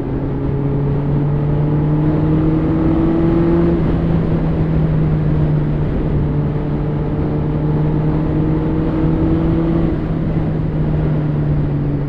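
Kawasaki ZX-10R's inline-four engine running on the move, with wind rushing past the helmet microphone; its pitch climbs slowly twice as the revs rise.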